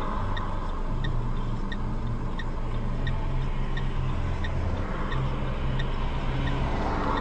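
Car engine and road noise droning steadily inside the cabin, with a turn-signal indicator ticking lightly about every 0.7 seconds.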